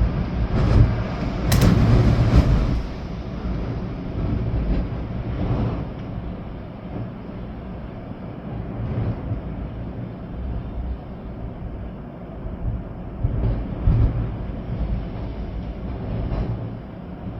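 Storm wind gusting through swaying trees, with rain. A strong gust in the first few seconds rumbles deep on the microphone, then the wind settles to a steadier rush with a few sharp knocks.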